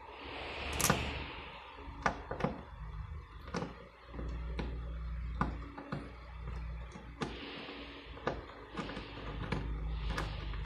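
Hand work at a car door: irregular sharp clicks and knocks, with a few short hissing rustles in between.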